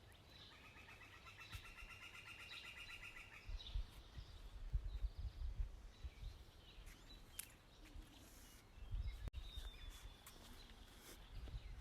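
A bird trilling, a rapid even run of notes lasting about three seconds near the start. Low rumbles on the microphone come and go later.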